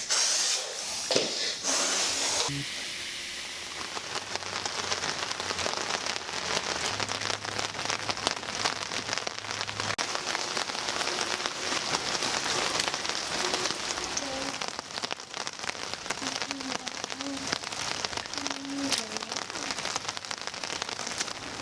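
Steady rain falling, an even hiss of many fine drops. A louder rush of noise in the first couple of seconds stops about two and a half seconds in.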